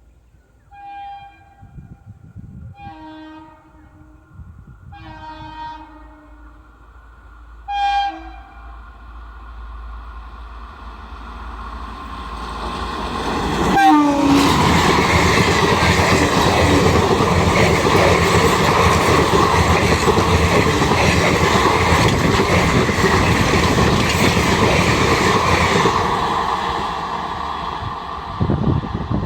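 An Indian Railways train sounds its horn in four short blasts about two seconds apart, then approaches and passes at speed. The passing run comes in suddenly about 14 seconds in, with a loud, dense rumble and wheel clatter for about twelve seconds before easing off.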